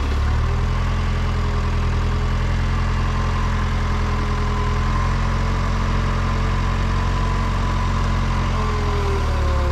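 Diesel engine of heavy equipment running steadily. Its speed steps up just after the start and drops back near the end.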